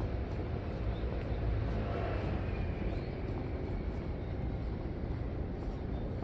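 Steady city street traffic: a continuous low rumble of passing vehicles, with a faint high tone drifting briefly about two seconds in.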